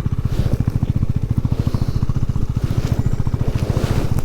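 KTM 390 Adventure's single-cylinder engine running, its exhaust beat an even, rapid pulse.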